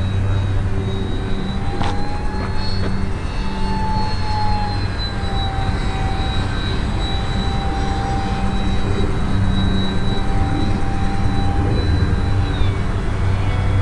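High, thin whine of an ultra-micro RC airplane's small electric motor in flight, its pitch drifting slightly up and down as the throttle and airspeed change. Underneath is a steady low hum and rushing wind noise.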